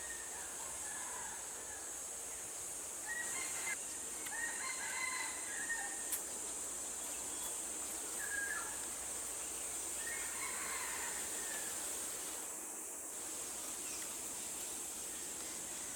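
Several bird calls scattered through, over a steady high-pitched hiss of background noise.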